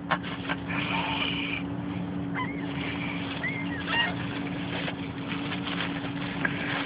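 Car engine idling with a steady hum, with several short, sharp gull calls over it about halfway through.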